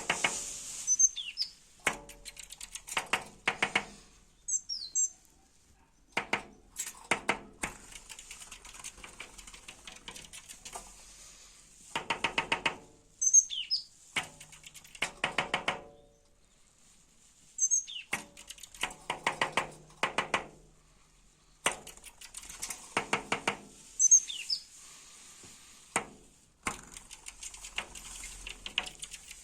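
A small bird giving short high chirps every few seconds. Between the chirps come repeated bursts of rapid sharp taps, each lasting a second or two; these taps are the loudest sounds.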